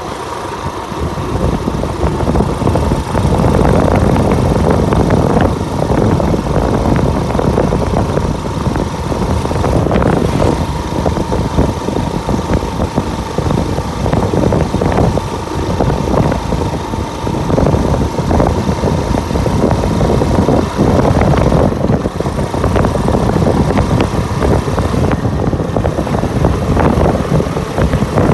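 Motorcycle engine running steadily during a ride, with a rumble and many short knocks and jolts along the way.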